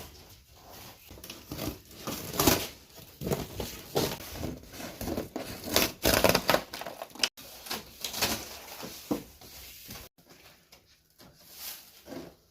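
Packing material on a new refrigerator being handled and pulled off: irregular crinkling, tearing and knocks, loudest in the middle and quieter toward the end.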